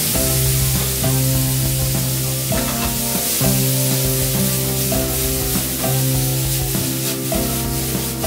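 Broccoli and carrots sizzling as they sauté in a stainless steel pan, a steady frying hiss, with background music of sustained notes.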